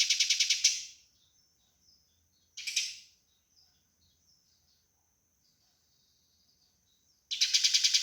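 Eurasian tree sparrows giving the rapid, harsh chattering calls of fighting birds, about ten chirps a second. The chatter stops under a second in, with one short burst near three seconds and faint chirps in the pause, then starts again near the end.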